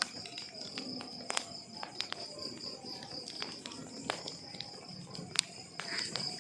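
Burning wood logs crackling, with irregular sharp pops every half second to a second, the loudest about five seconds in, over a steady high thin tone.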